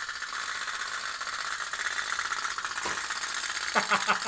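Tin pop-pop toy boat engine running, its heated boiler putting out a fast, steady ticking putter. A voice cuts in briefly near the end.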